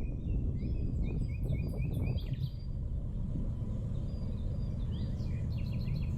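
Small birds chirping in two spells of short, quick, repeated notes over a steady low outdoor rumble.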